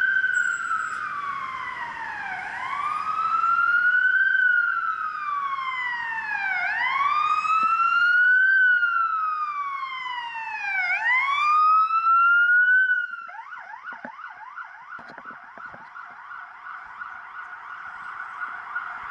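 Emergency-vehicle electronic siren wailing, its pitch rising and falling slowly about every four seconds. About thirteen seconds in it switches to a quieter, fast yelp.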